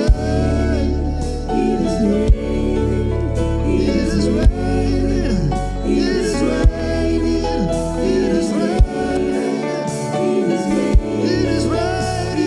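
Live gospel worship music: singing over sustained chords and a bass line, with a deep thump on the beat about every two seconds.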